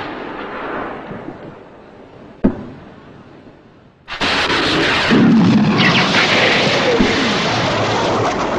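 Rocket thrust sound effect: a fading rush, a single sharp bang about two and a half seconds in, then a sudden loud rushing blast from about four seconds in that keeps going, with falling tones running through it.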